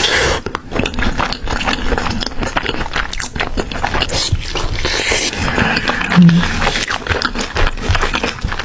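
Close-miked eating: repeated crunchy bites and chewing of fried food, with a short low grunt-like sound about six seconds in.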